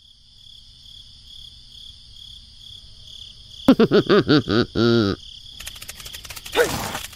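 Crickets chirping in a steady high trill. About halfway through comes a loud run of six or so quick up-and-down pitched calls, ending in one longer note. A noisier, rustling sound follows.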